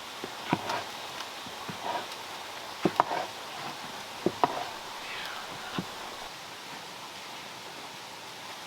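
A handful of short, sharp knocks, two close pairs among them about three and four seconds in, over a steady hiss.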